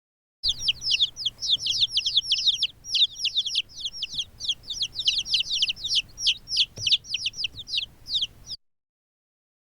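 A flock of birds chirping: many quick, high, downward-sliding chirps overlapping in a busy run that starts and stops abruptly.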